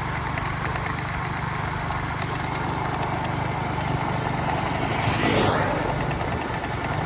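Motor vehicle engine running steadily, with something rushing past close by about five seconds in.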